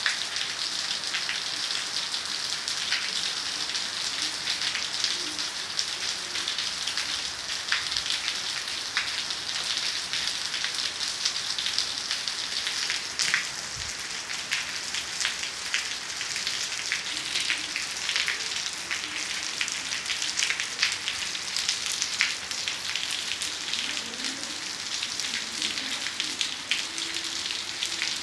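Heavy rain falling steadily: a constant hiss with many individual drops ticking sharply on surfaces.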